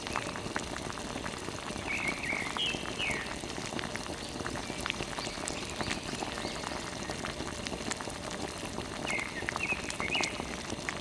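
Water from a small pump spraying and splashing in a steady patter of drops. Short clusters of high chirps come twice, about two seconds in and near the end.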